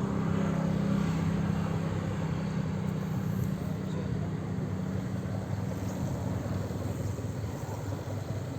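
Fast passenger boat's engines running with a steady low drone, over a rushing noise.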